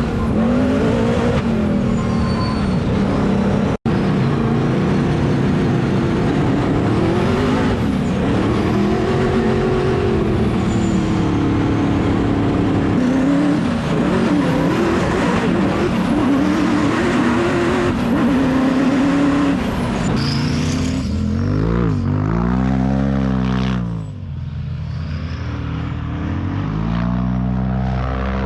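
Twin-turbo sand car engine running hard, its pitch rising and falling again and again as it revs. Near the end it sweeps up and back down, then settles lower.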